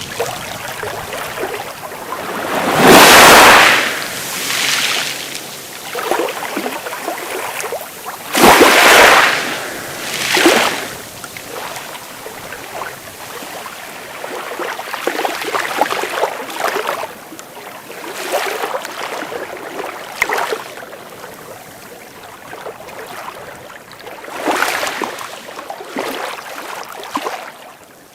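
Sea waves breaking and washing onto the shore in a series of surges. The loudest swells come about three and nine seconds in, with smaller ones between.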